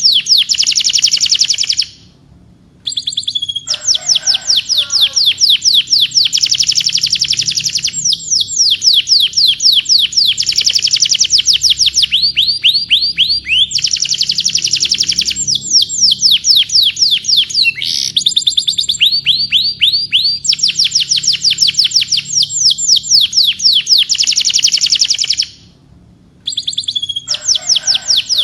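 Domestic canary singing: long runs of rapid trills, each a fast string of repeated notes, switching to a new trill every second or two. A lower warble comes in around four seconds and again near the end. The song breaks off briefly twice, about two seconds in and near the end.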